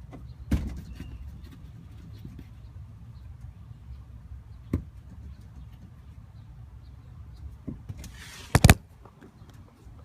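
Low steady rumble of a 2014 Ford Mustang, with a few sharp knocks over it: one near the start, one about halfway, and the loudest near the end, a double knock with a brief rush of noise.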